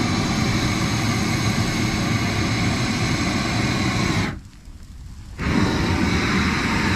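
Steady rushing roar of flames in two stretches. It breaks off suddenly about four seconds in and comes back just over a second later.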